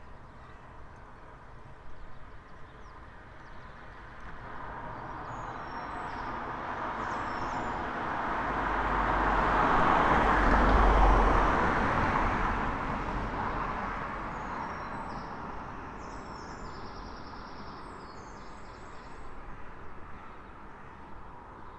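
A road vehicle driving past on the street: engine and tyre noise that swells to a peak about halfway through, with a low rumble at its loudest, then fades away. Small birds chirp faintly near the start and again as the vehicle fades.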